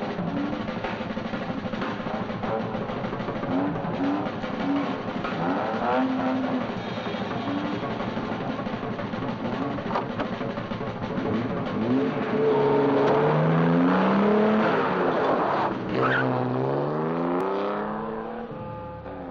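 A car engine running and accelerating, rising in pitch twice near the end, with film-score music playing over it.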